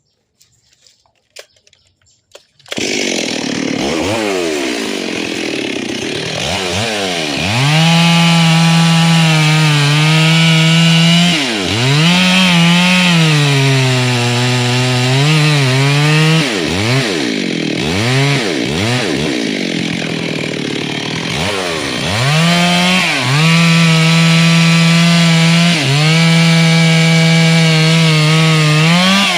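Two-stroke chainsaw coming in loud about three seconds in, then running at high throttle while cutting into a hollow tree, the engine repeatedly easing off and revving back up, with its pitch sagging at times.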